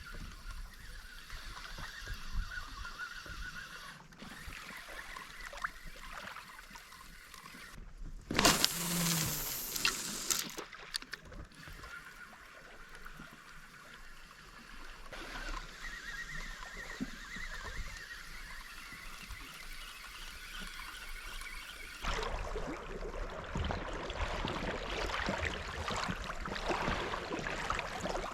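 River water running and lapping steadily, with a brief louder noise about eight seconds in and the water noise growing louder near the end.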